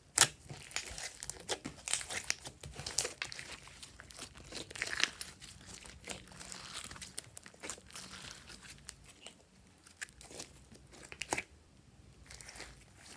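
Slime being worked by hand: irregular sticky clicks, snaps and crackles as it is squeezed, stretched and pulled apart. The sounds thin out and quieten near the end.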